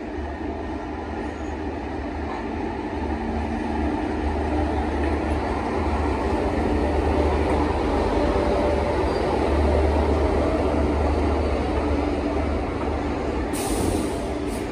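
WAG-7 electric locomotive of Indian Railways passing slowly at the head of a loaded coal freight train: a steady deep hum with the rumble of wheels on rail, growing louder as the locomotive draws level, then the coal wagons rolling by. A brief high hiss sounds near the end.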